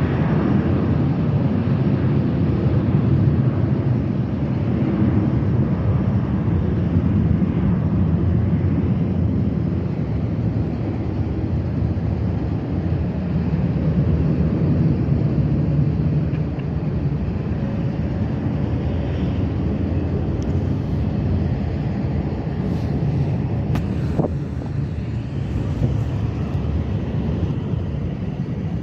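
Steady low mechanical rumble of airport apron machinery around a parked airliner, with a few faint clicks in the last few seconds.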